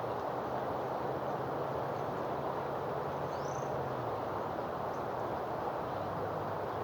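Steady rushing outdoor noise, with a faint low hum through the first half and a single short rising chirp about three seconds in.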